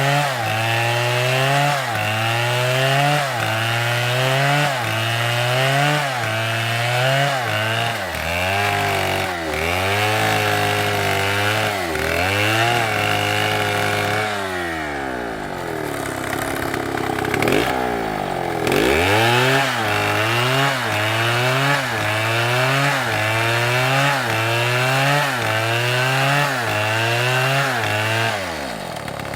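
STIHL two-stroke chainsaw cutting through wood under load. The engine pitch dips and recovers in a regular rhythm, a little more than once a second, as the saw works the cut. Around the middle it bogs down to a lower pitch for a few seconds, then picks up again, and near the end it falls away as the throttle is released.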